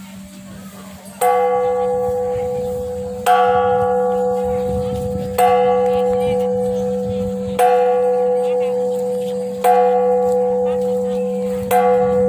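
Temple bell struck six times at an even pace, about every two seconds, each stroke ringing on until the next.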